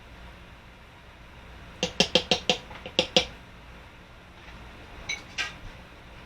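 Kitchen utensils clinking: a quick run of about six sharp, ringing metallic knocks, then two fainter clicks a couple of seconds later.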